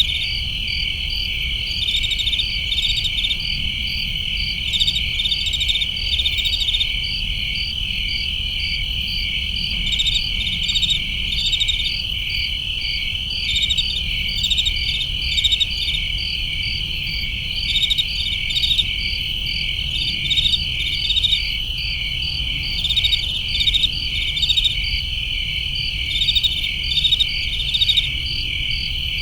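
Chorus of crickets: a steady high trill with groups of quick pulsed chirps repeating over it, and a faint low rumble beneath.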